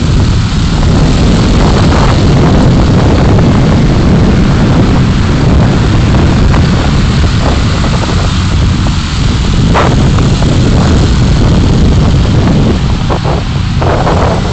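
Steady rumble of a car's engine and road noise while driving, picked up by a dashcam. A few brief higher-pitched sounds stand out about ten seconds in and again near the end.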